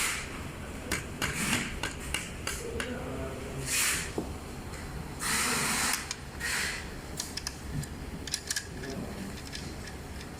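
Hand tools and metal parts clicking, clinking and knocking during work on an electric scooter's motor, with a few longer scraping bursts about four, five and six and a half seconds in.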